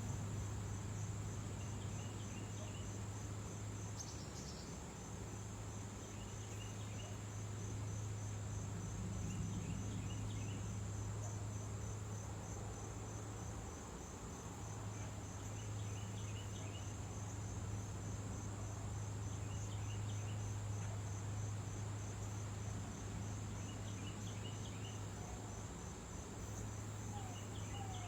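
High, steady, evenly pulsing insect chorus, like crickets trilling, over a steady low hum. Faint short chirps come every few seconds.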